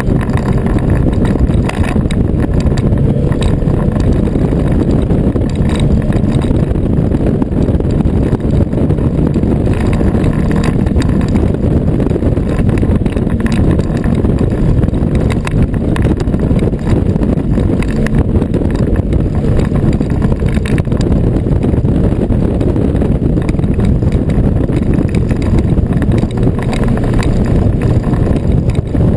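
Cabin sound of a Subaru WRX STI's turbocharged EJ25 flat-four running hard at track speed, loud and steady throughout. Over it is a noise from the GoPro camera housing, which the owner thinks comes from something broken inside it.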